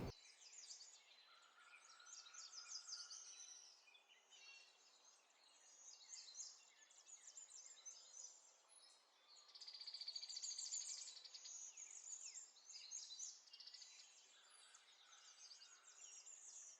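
Faint bird chirps and calls over near silence, thickest about ten seconds in.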